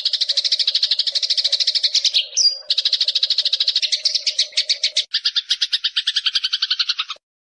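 Eurasian tree sparrow chirping in a rapid, unbroken chatter of about ten chirps a second. The chatter changes character abruptly about five seconds in and cuts off suddenly about seven seconds in.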